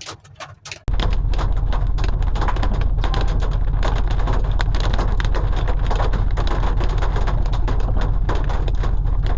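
Rain and hail pelting the pickup truck's body and windshield in a dense, continuous patter over a steady low rumble, starting abruptly about a second in after a few faint clicks.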